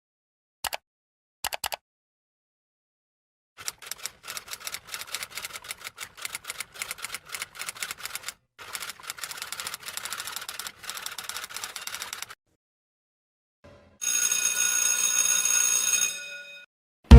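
Typewriter sound effect: a few single clicks, then about nine seconds of rapid, uneven key clacking. It ends with a loud, ringing bell-like sound lasting about two and a half seconds.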